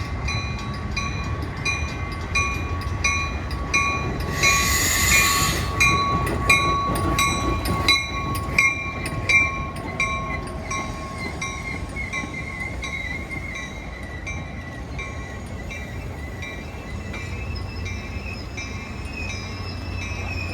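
Metra commuter train pulling into a station: its bell rings steadily at about one and a half strokes a second over the low rumble of the train, fading after about ten seconds. A loud hissing blast lasts about a second, some four and a half seconds in.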